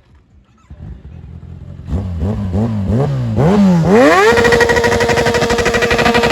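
Kawasaki ZX-10R superbike's inline-four engine being revved while standing. The throttle is blipped a few times in quick rises and falls, then the engine is revved up about four seconds in and held at high revs.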